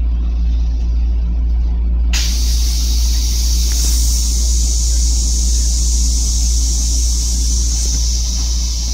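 Steady low hum and rumble of a Metro-North M7 electric railcar, heard from inside its restroom. A steady high hiss comes in suddenly about two seconds in and continues.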